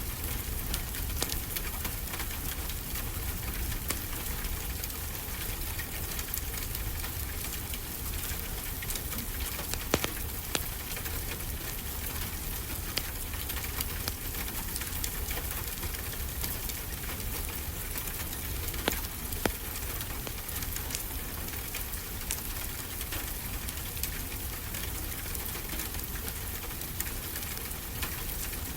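Wood fire crackling, with scattered sharp pops, over a steady hiss of ocean surf.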